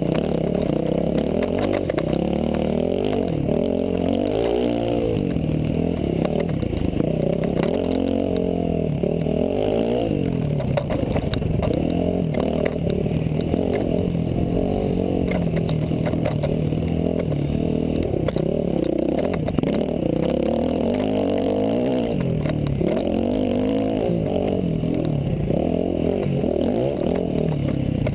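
Dirt bike engine heard from on the bike, revving up and down over and over as it is ridden hard over rough trail, its pitch rising and falling with each burst of throttle.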